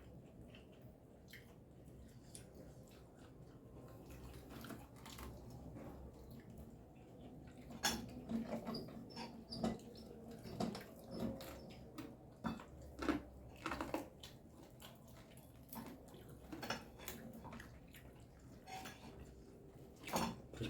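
Eating sounds: quiet chewing, then from about eight seconds in a scattered run of sharp clicks and light clatter of dishes.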